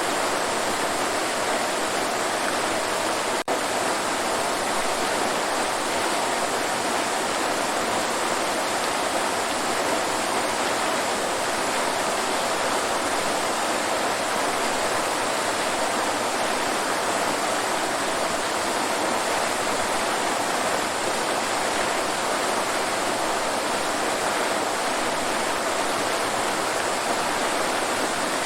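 Waterfall: a steady, unchanging rush of falling water, broken once by a split-second dropout about three seconds in.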